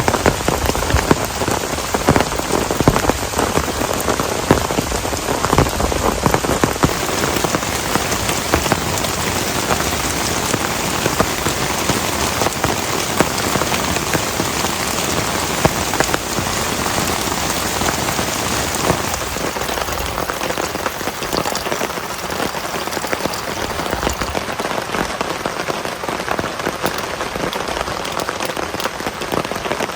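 Heavy rain falling steadily, with many close drops striking a surface, easing slightly about two-thirds of the way through.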